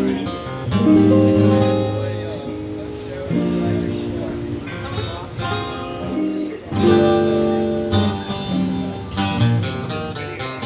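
Live blues band playing, with guitar chords strummed and held prominently over the rest of the band.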